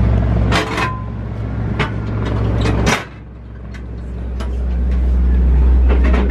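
Low, steady rumble of a train heard inside a passenger coach, with scattered clicks and knocks. The rumble dips briefly about half a second in, drops sharply at about three seconds, then builds back up.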